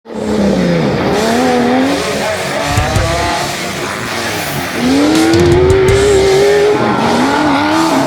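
Off-road 4x4 engine revving hard, its pitch rising and falling repeatedly, then climbing in one long sweep about five seconds in as the throttle is held open.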